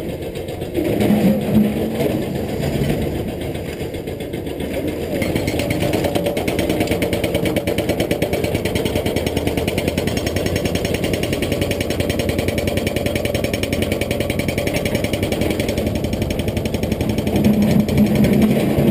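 Caterpillar 320D excavator's diesel engine running steadily with a fast, even pulse. It picks up about five seconds in and stays at the higher level, as when the machine goes to work under hydraulic load.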